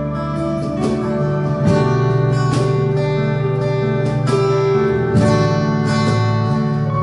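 Instrumental music led by strummed acoustic guitar, chords struck about once a second over held bass notes.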